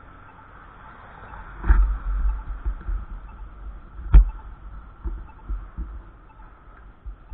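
Wind gusting on the microphone, low rumbling buffets that come and go, with one sharp knock about four seconds in.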